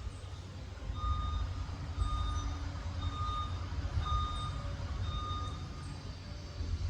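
Reversing alarm of a Liebherr PR 746 crawler dozer beeping five times, about once a second, over the steady low rumble of its diesel engine: the dozer is backing up.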